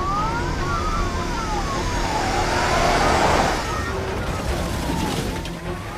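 Several sirens wailing at once, their pitches rising and falling out of step with one another, over a steady rumble of engines and traffic.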